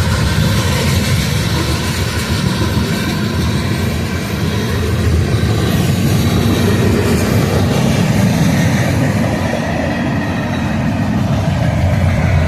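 A manifest freight train rolling past: steady rumble and rail noise of the wheels and cars.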